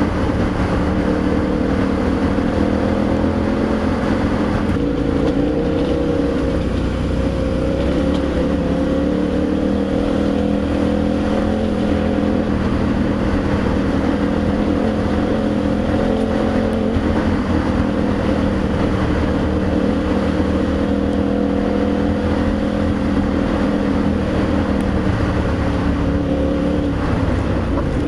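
KTM adventure motorcycle's V-twin engine running at a steady cruising speed, its pitch holding nearly level, with wind rushing past.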